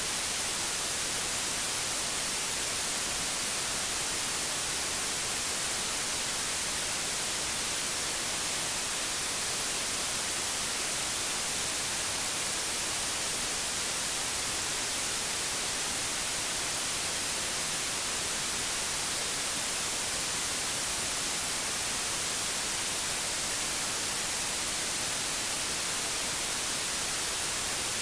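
Steady white noise: an even, unchanging hiss spread across the whole range, brightest in the highs.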